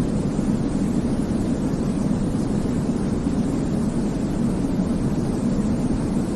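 Steady sleep-aid noise for babies: an unbroken, even rumbling hiss weighted toward the low end, with no change in level or pitch.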